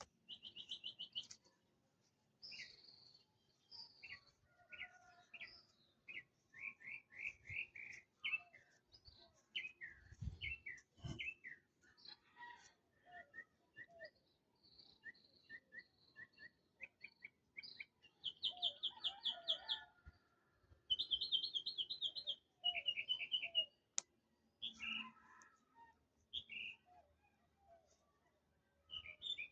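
Several birds chirping and singing: short repeated whistled notes and fast trills, the loudest trills coming about two-thirds of the way through.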